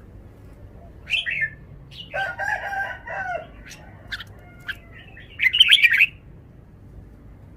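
Red-whiskered bulbul singing short, bright phrases, one about a second in and the loudest near six seconds, with a longer, lower call between them.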